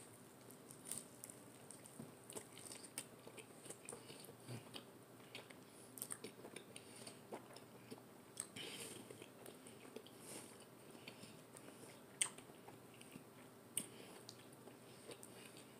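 Faint close-up chewing of a mouthful of chicken quesadilla with sour cream: soft wet mouth sounds and scattered small clicks, with one sharper click about twelve seconds in.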